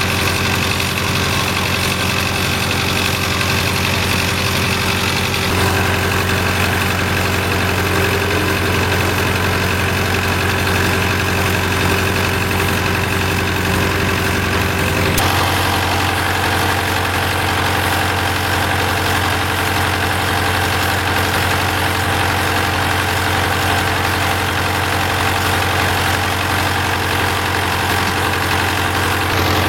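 An engine running steadily at a constant speed. Its tone changes abruptly twice, about five seconds in and again about halfway.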